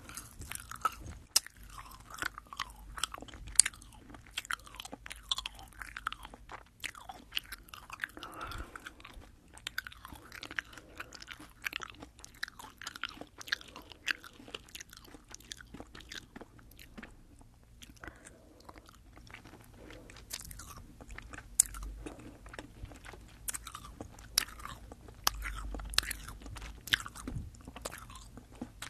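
Close-up chewing of Fini sour, sugar-coated gummy candy into a binaural microphone: soft, sticky mouth sounds with many sharp, wet clicks, easing off briefly just past the middle.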